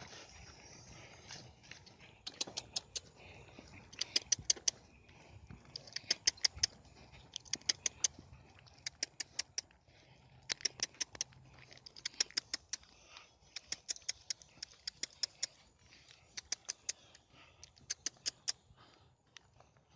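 Small metal pieces jingling in short rhythmic clusters of quick clicks, a cluster every second or two, in step with walking.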